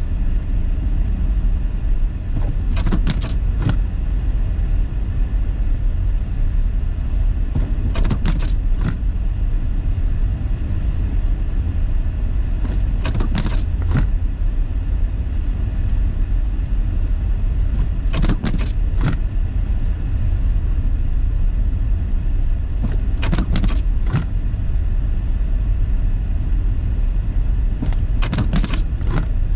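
Steady low road and engine rumble inside a car crawling through deep snow, with the windshield wipers sweeping about every five seconds, each cycle a quick pair of swishes.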